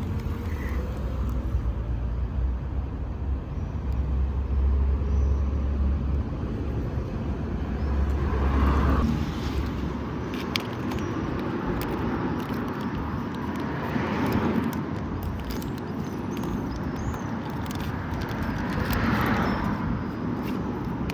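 Road traffic: a low engine rumble in the first half, then cars passing three times, each swelling and fading away.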